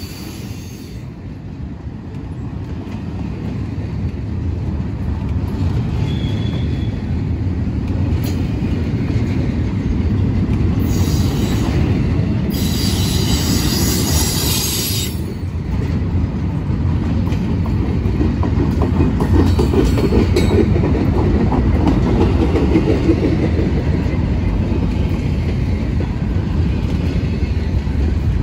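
Intermodal freight train's well cars rolling past close by: a steady low rumble of steel wheels on rail that grows louder. Bursts of high-pitched wheel squeal come about 8 seconds in and again from about 11 to 15 seconds in.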